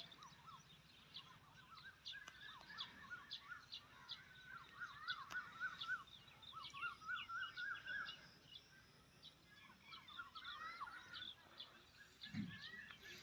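Many small birds chirping and twittering faintly, with quick warbling trills overlapping one another. A short low thud near the end.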